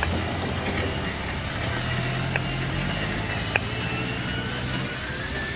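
Radio-controlled model truck driving on a rough track: its small electric motor and gearbox whine, the pitch slowly rising and falling with the throttle. Two sharp clicks come about two and a half and three and a half seconds in.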